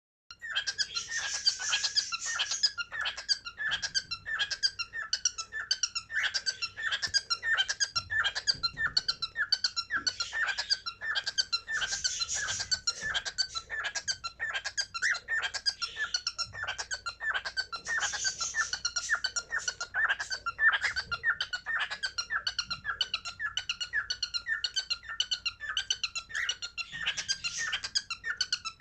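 Cockatiels chirping nonstop in quick short calls, several a second, with louder bursts of chatter now and then.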